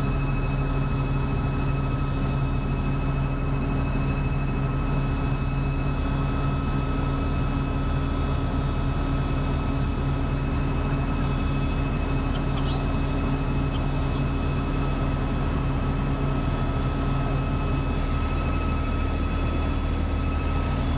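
Helicopter in flight heard from inside the cabin: a steady engine and rotor drone with a constant high turbine whine.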